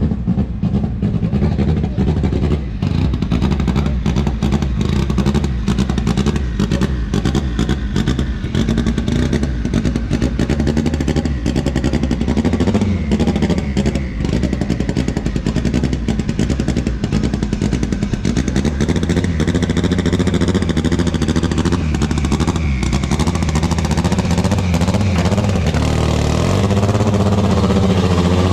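Loud engines of drag-racing vehicles running with a rough, crackling exhaust note, with a rising, revving pitch near the end.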